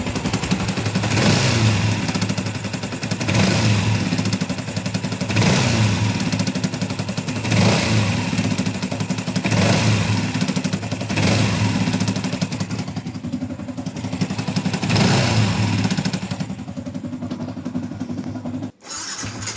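Yamaha Y16ZR single-cylinder motorcycle engine, freshly overhauled, being revved in short throttle blips about every two seconds, each swell rising and falling back toward idle. The sound cuts out briefly near the end.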